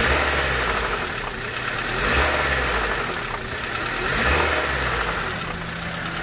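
Honda Civic four-cylinder engine running and revved by hand at the throttle three times, the engine note rising and falling back each time. The engine has run some 4,000 miles without oil, and the owner believes its rod bearings are completely gone.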